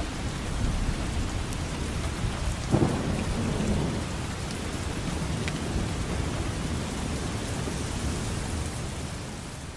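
Heavy rain falling steadily, with a deep rumble underneath and a brief louder burst about three seconds in; it fades near the end.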